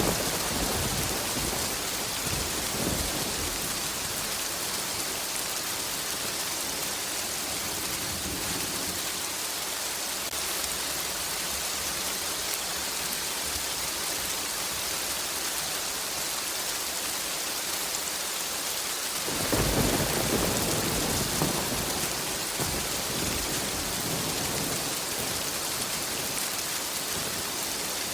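Steady rain falling through a thunderstorm. A roll of thunder fades out over the first few seconds, and another breaks about two-thirds of the way through and rumbles on for a few seconds.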